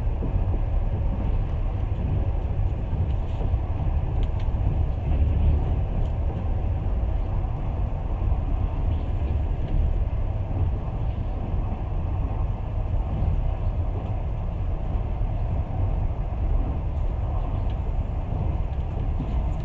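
Train running along the track, heard from inside the carriage: a steady low rumble of wheels on rails.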